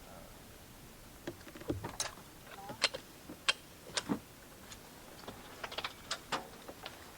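A dozen or so scattered light clicks and taps, irregular and short, like small hard objects being handled.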